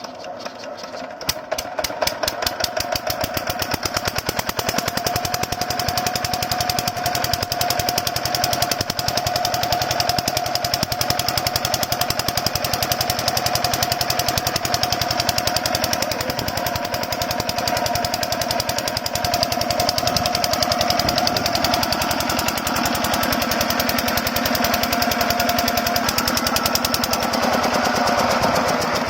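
Small 5HP diesel engine of a water pump set starting up and picking up speed over the first couple of seconds, then running steadily with a fast, even knocking beat. A steady whine rides over it and drops out near the end.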